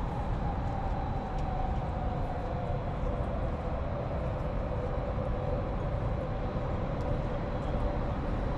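Steady city street noise with a vehicle's whine falling slowly in pitch as it slows down.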